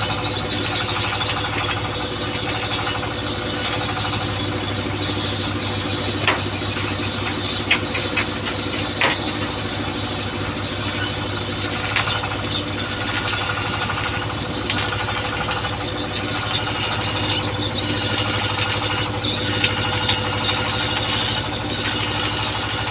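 An engine running steadily with a low hum, with a few sharp knocks scattered through it.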